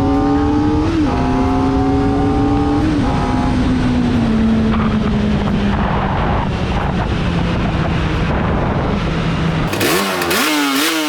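Kawasaki ZX-4RR inline-four sport bike engine running at high revs under way, with heavy wind rumble. The pitch blips up twice early on, then slowly falls. Near the end the rumble drops away and the engine revs up and down in quick swoops.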